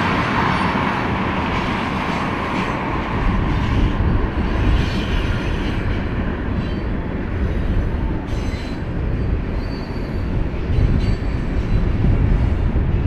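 Union Pacific freight train's cars rolling past with a steady, loud rumble of wheels on rail. A higher, brighter grinding note fades out over the first two seconds.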